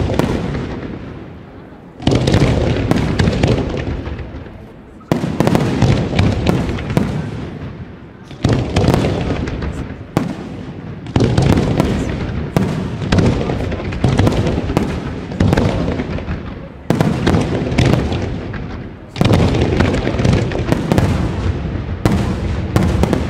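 Aerial firework shells bursting one after another, a sudden loud bang every one to three seconds, each fading out over a second or two before the next.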